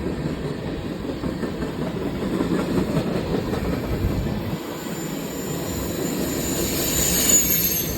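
Freight train cars passing, a steady rolling noise of wheels on rail, with a faint high wheel squeal coming in over the second half.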